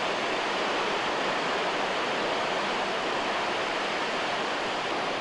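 Steady rush of white water pouring over a mountain waterfall.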